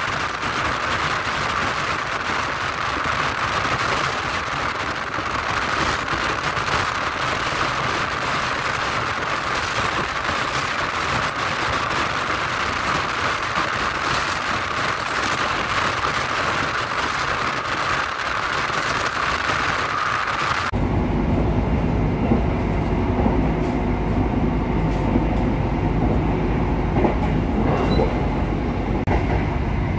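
Argo Cheribon passenger train running, heard from on board: a steady rushing noise that changes abruptly about twenty seconds in to a deeper rumble with wheel clatter and a few sharp clicks.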